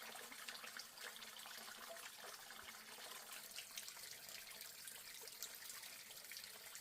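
Faint running water, a steady trickle with small drips and splashes.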